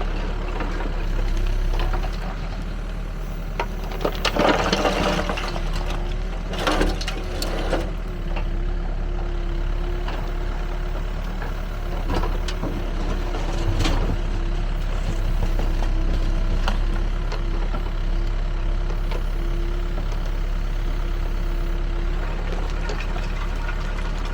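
Backhoe loader's diesel engine running steadily, with bursts of rattling and crunching from soil and rubble in the screening bucket about four and seven seconds in, and a steady whine through the middle.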